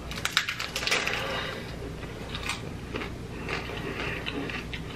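Chewing a hard-shell taco close to the microphone: a cluster of sharp crunches about a second in, then scattered lighter crunching and mouth clicks.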